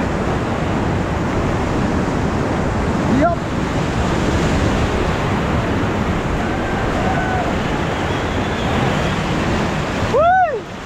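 Whitewater rapids rushing loudly and steadily around the raft, with wind buffeting the camera's microphone. A person lets out a brief shout near the end, with a shorter cry about three seconds in.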